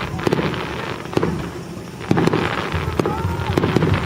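Fireworks display: aerial shells bursting one after another, a string of sharp bangs over a continuous rumble.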